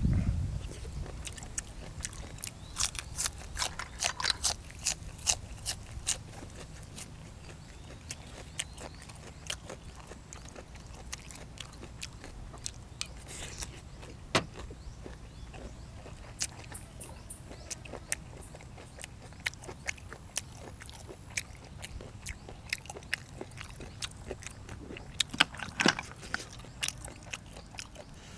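A person eating close to the microphone: chewing with sharp, crisp crunches and clicks, a dense run of them a few seconds in and another cluster near the end, with a single loud click about halfway.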